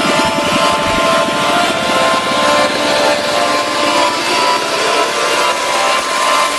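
Steady, loud engine noise with several held pitches and a fast low pulsing.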